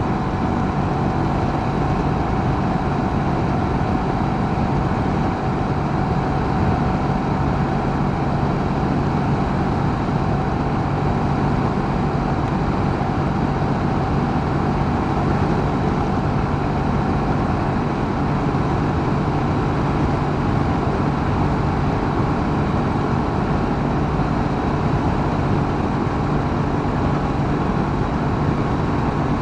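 Honda CB500X's parallel-twin engine running at a steady cruise, mixed with wind and road noise.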